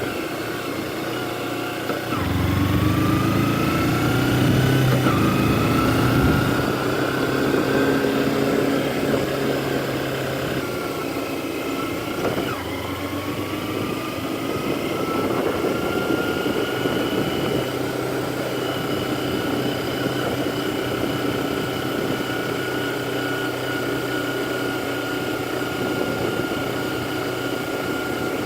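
A motor vehicle's engine running under way. It climbs in pitch as it accelerates, drops back about ten seconds in as if shifting up a gear, climbs again, then holds a steady cruising note.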